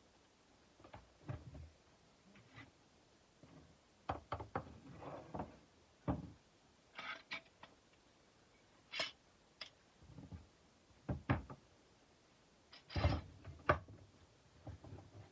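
Irregular knocks, clicks and a few brief scrapes of objects being handled on a hard surface, spaced unevenly with quiet gaps between.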